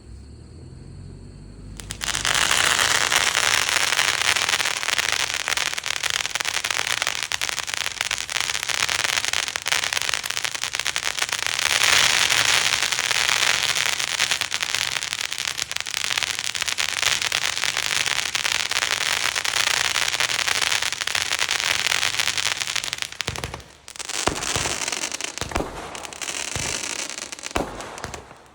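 A compound consumer firework going off: about two seconds in, its fountain lights and sprays with a continuous hissing crackle for some twenty seconds. Near the end the spray stops and the cake tubes begin firing as separate shots.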